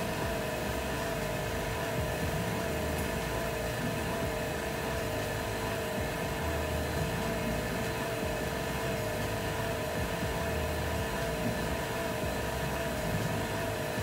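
OCA vacuum laminator running with a steady hum during the lamination of an iPhone X touch panel to its LCD.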